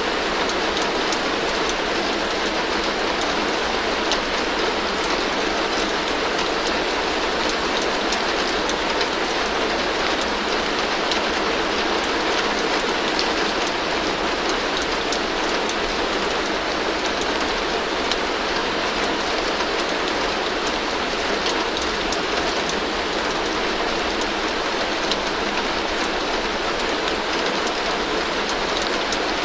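Heavy rain falling steadily on a tin roof: a dense, even patter with many sharp drop ticks.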